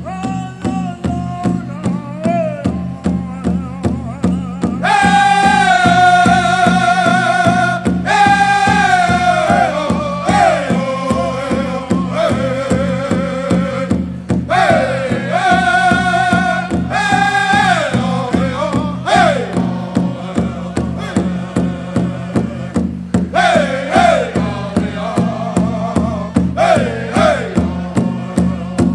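Pow wow drum group: a big drum beaten in a steady pulse while the singers chant high, wavering phrases that fall in pitch. The singing comes in strongly about five seconds in.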